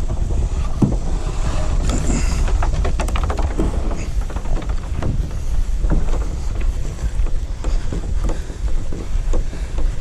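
Wind buffeting the microphone as a steady low rumble, with a scatter of short knocks and scrapes, thickest about two to four seconds in.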